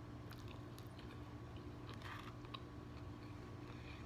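Faint close-up chewing of a mouthful of pizza, with soft mouth clicks and smacks, a small cluster of them about two seconds in, over a steady low hum.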